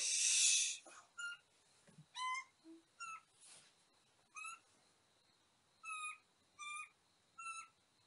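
A brief loud rustle at the start, then a bird calling over and over in short notes, each bending down at the end, about one a second.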